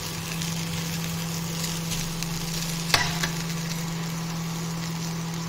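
Okra pieces sizzling as they stir-fry in a nonstick kadai, still slightly sticky and frying toward crisp, with a steel spatula stirring through them and one sharper clink against the pan about three seconds in. A steady low hum runs underneath.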